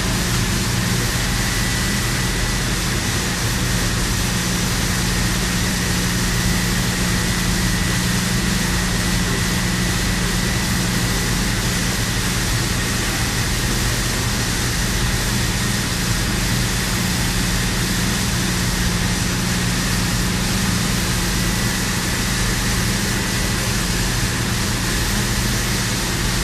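Steady drone of industrial plant machinery: a constant low hum with an even hiss over it, unchanging throughout.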